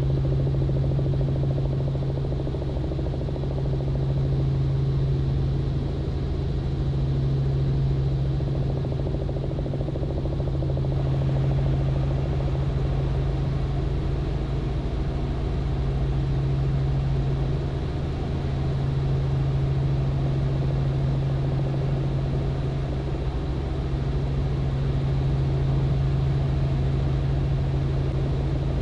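Robinson R44 helicopter in steady cruise flight: the constant drone of its rotors and six-cylinder piston engine, dominated by a strong low hum, swelling slightly every few seconds.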